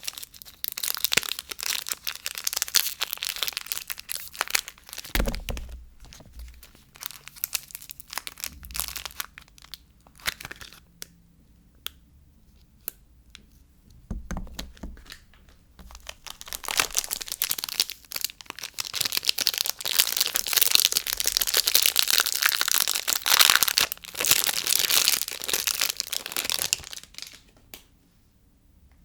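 Soap packaging being torn open and crinkled by hand, the wrapping crackling in two long spells, with a couple of soft thuds between them. It goes quiet near the end.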